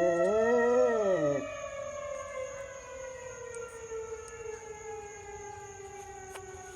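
A dog howls along with a fire engine siren, the howl wavering in pitch and then dropping off about a second and a half in. The siren's wail carries on after it, slowly falling in pitch.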